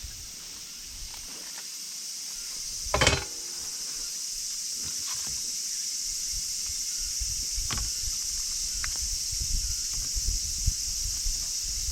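A steady high-pitched chorus of summer insects, with scattered knocks and rustles of camp handling and one louder brief clatter about three seconds in.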